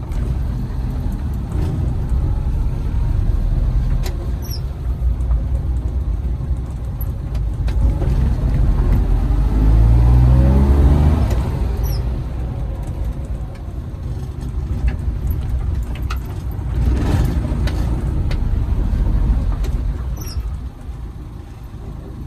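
Maruti Suzuki Omni van driving: a steady low rumble of engine and road noise, with the engine note swelling to its loudest about ten seconds in.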